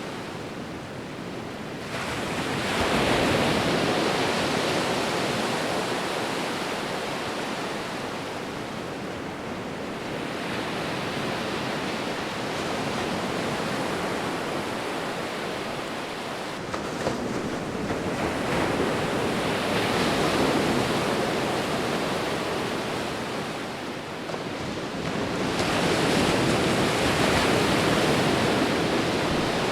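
Sea waves rolling in and breaking, the surf swelling and easing in slow surges: one builds about 2 s in, another around 18 seconds and a third near 25 seconds.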